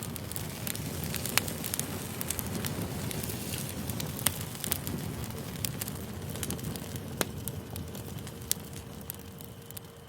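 Campfire burning: a steady low rush of flames with sharp crackles and pops of burning wood every second or so.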